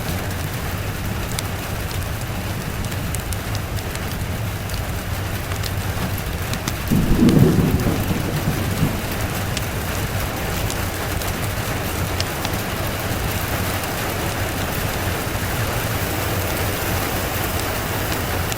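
Steady rain falling, with one short low rumble of thunder about seven seconds in, the loudest moment, dying away within a second or two.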